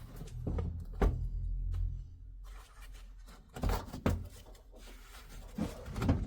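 Knocks and clunks of a diesel heater's parts being handled while it is taken apart, about six separate knocks, with a low rumble in the first couple of seconds.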